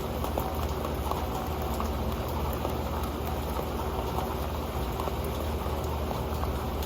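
Rain falling steadily on an old metal pan: a dense, even patter of drops ticking on the metal, with a steady low rumble underneath.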